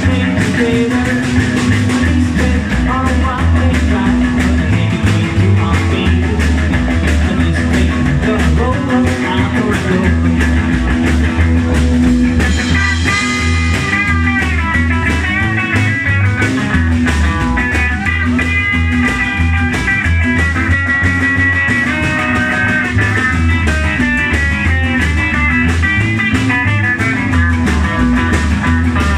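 Rock band music: electric guitar, bass and drums playing a steady beat, with a lead guitar line from about halfway in.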